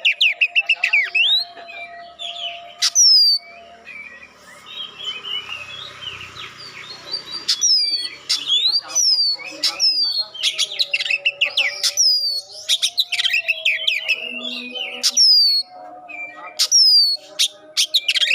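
Oriental magpie-robin (kacer) singing: loud, sharp whistles that slide steeply down in pitch, repeated every second or two, between runs of fast chattering notes. A softer stretch of mixed twittering comes about a third of the way in.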